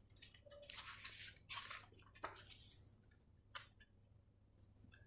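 Soft paper rustling over the first three seconds, as a picture book's page is turned, then a single light click.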